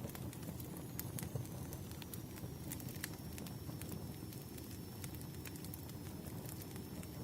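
Campfire crackling: a steady low rumble of burning with scattered sharp pops and snaps of the wood, and a faint thin high hiss-like tone from about a second in.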